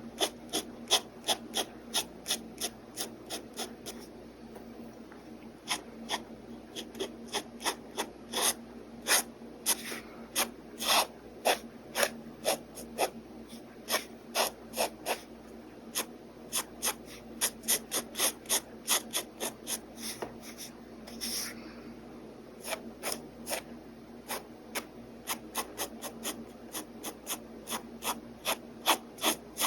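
Pen nib scratching across paper in quick short strokes, about two or three a second, with a brief lull a few seconds in and one longer drawn-out stroke about two-thirds of the way through.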